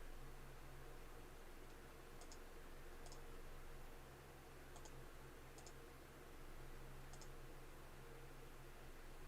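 Near silence: steady low room hum with a handful of faint, sharp double clicks scattered through.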